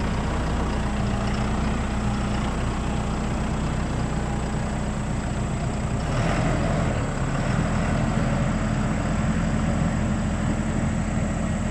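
Engine running steadily at a low, even pitch, its note shifting slightly about six seconds in.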